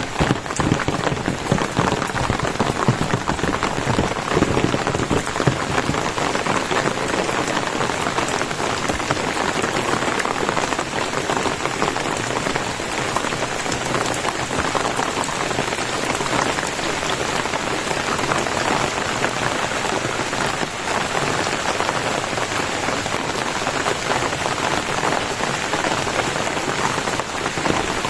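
Steady rain falling: an even hiss made of many individual drop hits.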